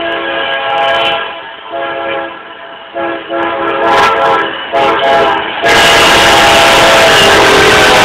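Freight locomotive's multi-tone air horn sounding a series of blasts, one chord of several notes, as the train approaches. About six seconds in, the locomotive draws level and a loud, steady rush of engine and wheel noise from the passing train covers everything.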